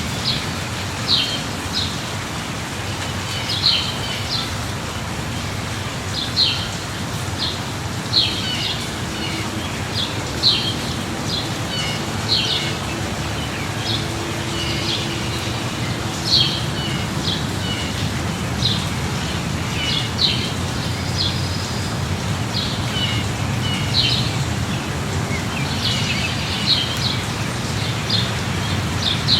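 Steady rain falling, with a bird giving short, high chirps every second or two over it.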